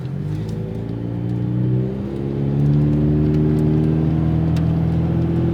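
Ford Mustang EcoBoost's turbocharged four-cylinder engine pulling the car away under light throttle. The pitch rises slowly at first, then holds steadier and a little louder from about halfway.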